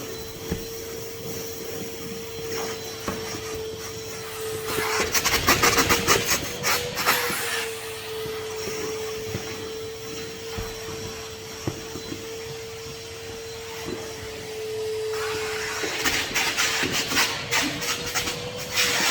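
Henry HVR200 620 W vacuum cleaner running with a steady motor whine, with two spells of scraping and rattling as the nozzle is worked over a surface, about five seconds in and again near the end.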